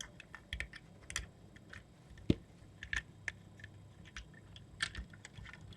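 Plastic Lego pieces clicking as they are handled and snapped together: a scatter of small irregular clicks, with one sharper snap a little over two seconds in.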